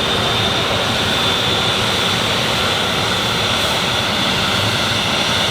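Cessna Citation CJ2's twin Williams FJ44 turbofan engines running with a steady high whine over a dense rushing noise.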